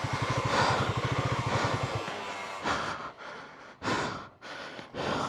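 Royal Enfield Himalayan 450's single-cylinder engine running at low revs with an even thudding pulse, then going quiet about two seconds in. The rider then breathes hard three times, about a second apart, close to the helmet microphone.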